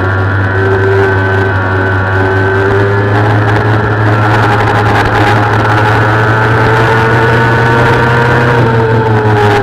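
Kawasaki ZX-6R's 600cc inline-four engine running hard on the race course, its pitch climbing slowly through a long pull and then falling near the end as the revs drop. A heavy, even rush of wind noise runs underneath.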